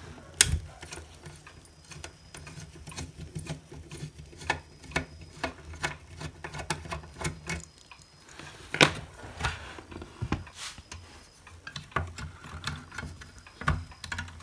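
Screwdriver work on a screw in a hot air rework station's case: many irregular small clicks and taps of metal on metal. There are sharper knocks about half a second in and near nine seconds.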